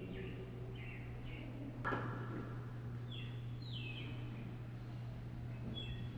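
Faint bird chirps, several short calls that slide downward in pitch, spaced a second or two apart, over a steady low hum. A light click about two seconds in.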